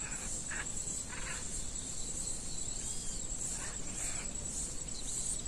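Insects chirring steadily at a high pitch, with a few short, fainter calls over them.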